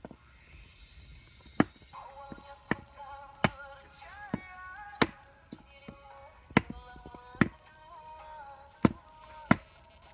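About nine sharp, irregularly spaced chopping strikes over background music with a melody.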